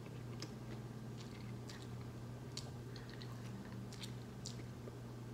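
A person chewing a mouthful of crispy fried chicken sandwich, with soft, irregular wet mouth clicks over a steady low hum.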